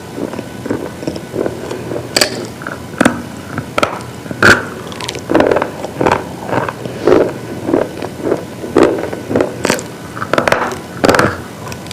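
Brittle pieces being crunched: an uneven run of sharp cracks and short crumbly crunches, coming quicker from about five seconds in.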